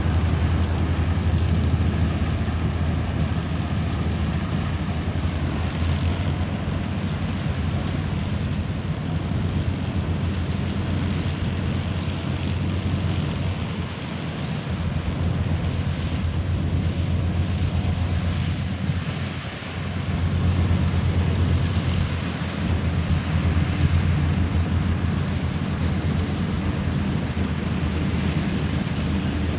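Antique combine harvester running steadily in the field, engine drone with threshing noise over it; the sound dips briefly about a third of the way in and again about two-thirds through, then comes back up.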